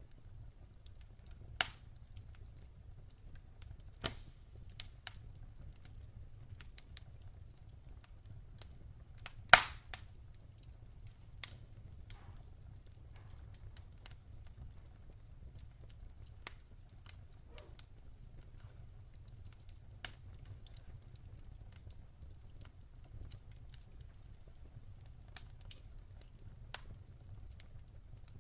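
Campfire crackling: scattered sharp pops from the burning wood, the loudest about a third of the way through, over a low steady rumble.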